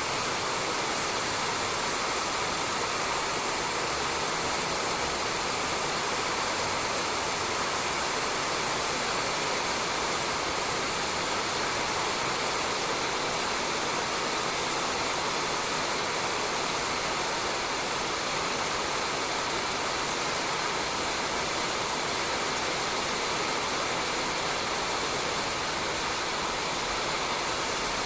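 Steady rain falling on a roof, an even unbroken patter-hiss.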